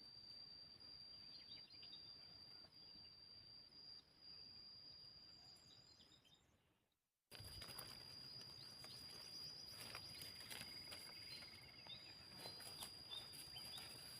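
Faint rural ambience: a steady high-pitched insect drone with occasional bird chirps. About halfway through it fades out to silence, then cuts back in a little louder with the same drone, scattered clicks and a short trill.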